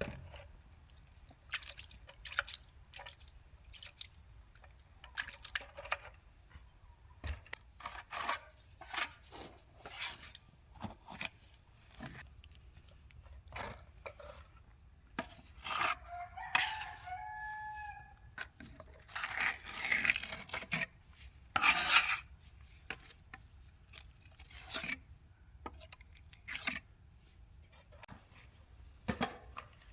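A rooster crowing once about halfway through, among scattered short knocks, clicks and scrapes.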